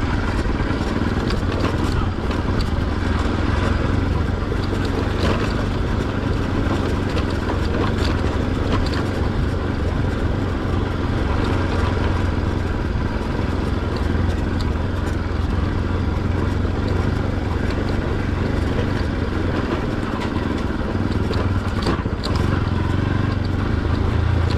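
Motorcycle engine and exhaust running steadily while riding, with a low, even note and occasional short knocks and rattles. The exhaust sounds open because the silencer has lost its baffle and cracked at the clamps, as the rider says.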